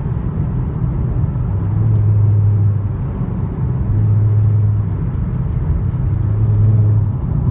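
Genesis car driving at road speed, with engine and road noise heard as a steady rumble inside the cabin. A low hum swells and fades several times.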